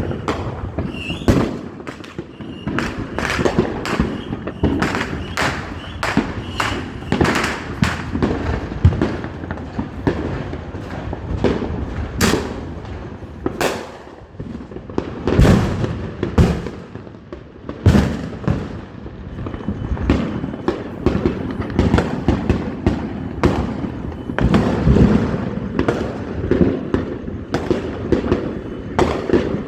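Fireworks going off in rapid succession: a steady string of sharp bangs, about one or two a second, over a continuous low rumble, with a few louder bangs past the middle.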